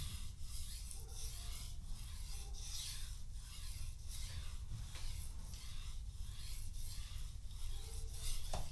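Steel knife blade stroked back and forth on a wet 3000-grit whetstone: a soft scraping that repeats in an even rhythm, the finishing stage of sharpening.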